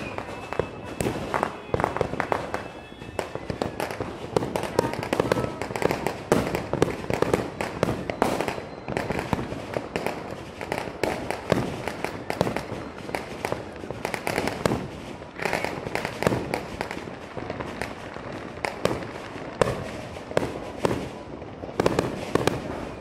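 Fireworks and firecrackers going off in a dense, unbroken string of bangs and pops, many of them overlapping.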